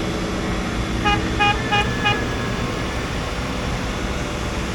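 A vehicle horn beeps four short times in quick succession over a steady, low engine running.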